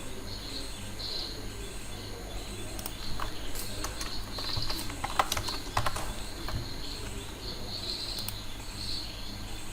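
Faint birds chirping in the background, with a few sharp clicks in the middle and a steady low hum underneath.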